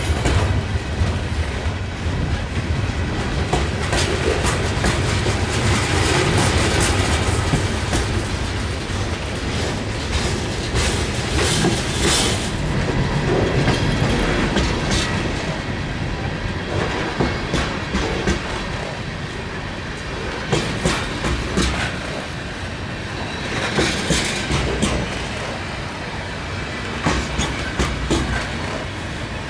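Heavy CSX freight train's cars rolling past at close range: a steady rumble with wheels clicking over the rail joints throughout.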